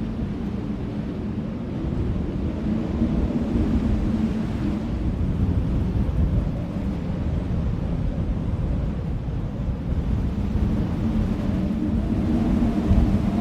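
Steady low rumble of desert ambience, with a faint hum that swells and fades a few times.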